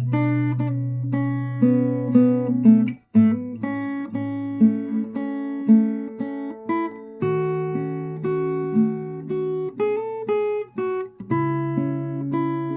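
Solo acoustic guitar played fingerstyle: a plucked melody over held bass notes, with a brief break about three seconds in.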